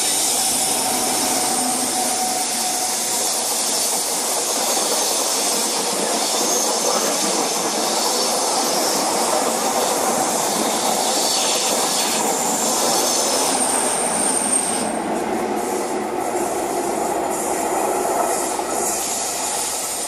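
Cross Country diesel High Speed Train (class 43 power cars with Mark 3 coaches) passing through the station at speed: a steady loud rush of wheels on rail and diesel power-car noise. A brief high squeal comes about two-thirds of the way through.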